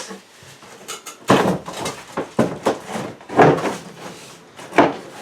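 A series of sharp knocks and clunks, about six in five seconds, the loudest about three and a half seconds in.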